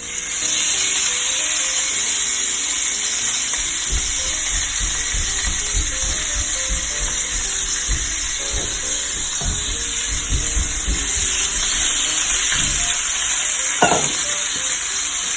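Seasoned chicken breast sizzling steadily in hot olive oil on a grill pan, starting suddenly, with a few low bumps of the pan or pieces being handled and one sharp knock near the end.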